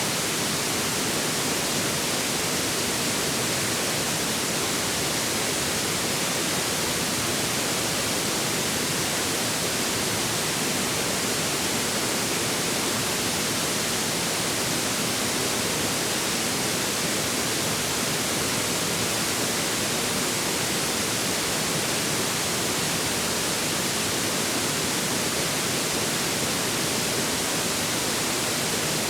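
A forest river or stream flowing: a steady, unbroken rush of water.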